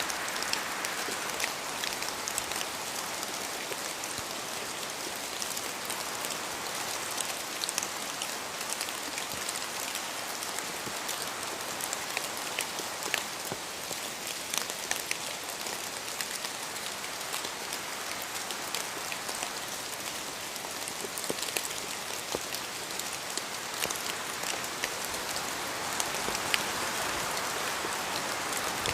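Steady rain falling, an even hiss with many separate close drops ticking throughout.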